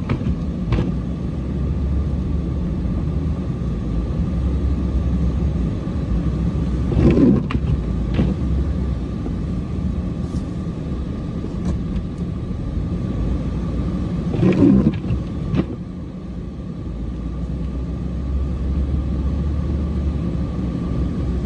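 Cummins diesel engine of a truck running steadily under load while clearing snow, with two short louder surges, about a third and two-thirds of the way through.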